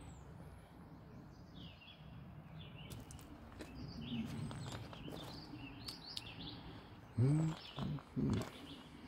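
Small songbirds chirping and calling on and off, with short curved chirps over a low steady background. Near the end come three short, louder low sounds that rise in pitch.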